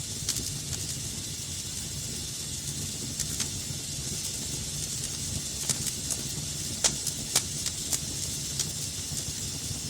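Wood fire burning in a fireplace: a steady hiss and low rumble with scattered sharp crackles and pops, the loudest two close together about seven seconds in.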